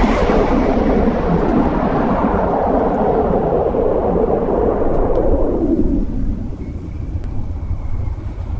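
Aircraft passing overhead and moving away: a loud engine rumble that grows duller and fades over about six seconds, leaving a low wind rumble on the microphone.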